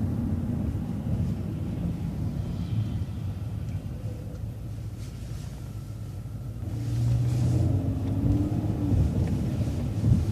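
City transit bus engine and road rumble, heard from inside the bus as it changes lanes and approaches a left turn. The low steady running grows louder about seven seconds in as the engine pulls harder.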